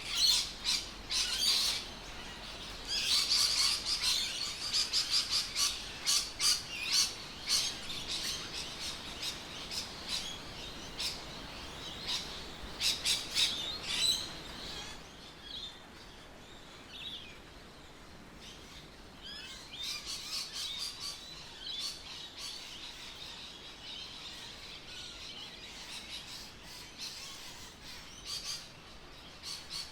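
Birds chirping and calling in quick, short notes, busiest for the first half and thinning out after about fifteen seconds, with a steady faint outdoor background.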